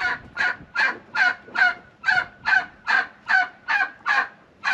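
Hen turkey yelling: a fast, even run of about a dozen short calls, roughly two and a half a second.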